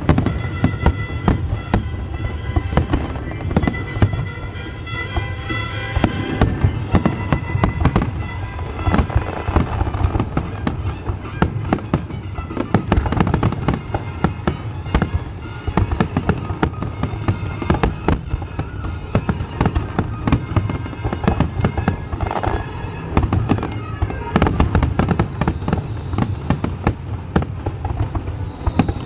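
Fireworks show: a dense, continuous barrage of shells bursting, with rapid bangs and crackling throughout, over music.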